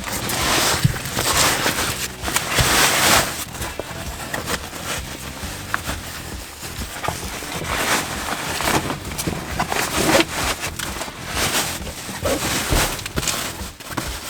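Fabric seat cover rustling and scraping as it is handled and pushed through the headrest holes of a pickup's rear seat, in irregular swishes, loudest in the first few seconds, with a few light knocks.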